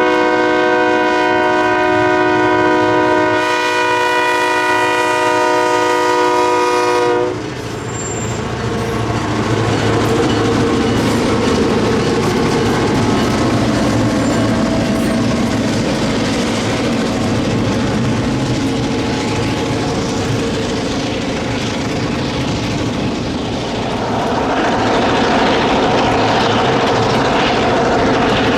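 A diesel locomotive's air horn sounds one long chord for about seven seconds and cuts off. The locomotive's engine keeps running and a train rolls past with clattering wheels, swelling again near the end.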